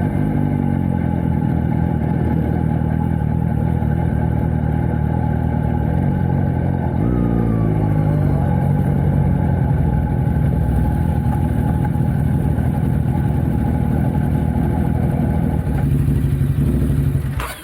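Suzuki GSX-S750 inline-four with a Yoshimura Alpha T slip-on exhaust, riding at speed. The engine note drops near the start and again about seven seconds in as the throttle comes off, then holds steady.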